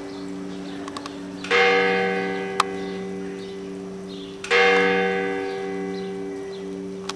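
A large church bell tolling slowly, struck twice about three seconds apart, each stroke ringing on and fading slowly.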